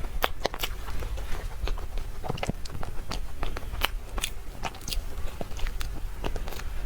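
Close-miked eating: biting and chewing with many sharp, irregular wet clicks and crackles, over a steady low hum.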